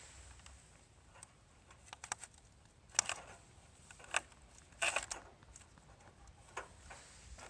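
Scattered light clicks and taps at irregular intervals, the loudest about three and five seconds in.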